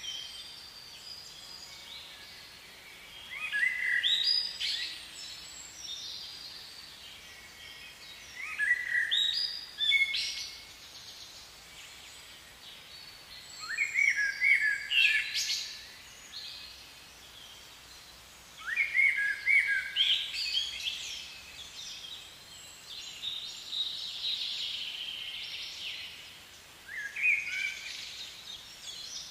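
A songbird singing: about six brief phrases of quick, high chirps, one every four to five seconds, over a steady faint background hiss.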